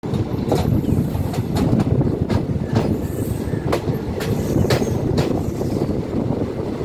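Indian Railways passenger train running at speed, heard from inside the coach: a steady low rumble with sharp clicks of the wheels on the track at uneven spacing.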